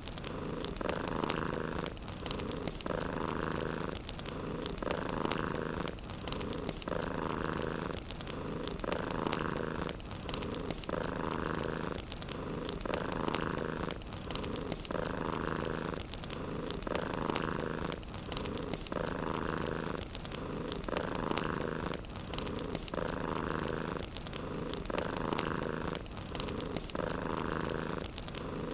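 Domestic cat purring in a steady, even rhythm, one purr cycle about every one and a half seconds, with a fireplace crackling behind it.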